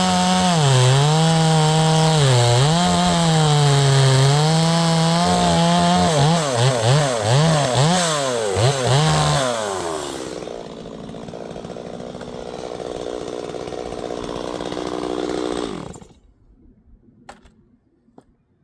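Neotec NS846 45.4cc two-stroke chainsaw (Stihl MS 250 clone) cutting wood at full throttle, its pitch sagging and recovering under load. About six seconds in it is revved in quick blips, then it drops to a lower steady run and stops suddenly near the end.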